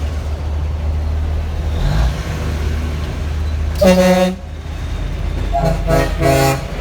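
Vehicle horn over a steady low engine rumble from idling traffic: one horn blast of about half a second a little after the middle, then a few short toots near the end.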